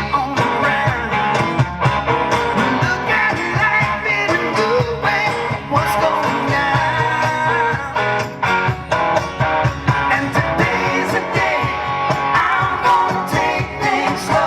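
Live rock band playing through a loud PA: strummed guitars over a steady drum beat, in an instrumental stretch between sung lines.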